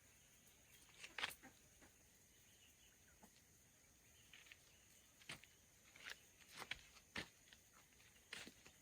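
Near silence with faint, irregular light clicks and taps, a little more frequent in the second half.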